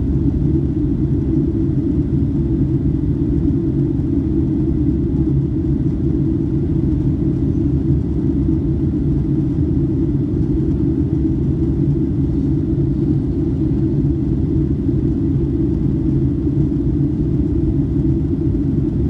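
Steady low rumble inside the cabin of a Boeing 757-200 airliner in flight, the engines and the air rushing past the fuselage, with a faint steady high tone above it.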